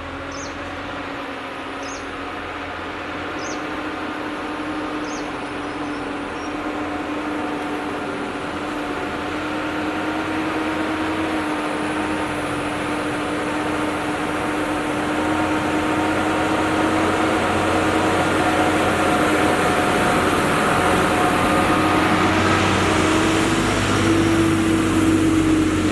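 Heavily loaded lorry's engine pulling steadily up a steep hill road, its note almost level and growing louder as it comes closer.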